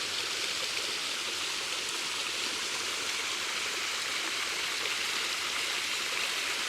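Steady rush of water falling over a waterfall, an even hiss with no breaks.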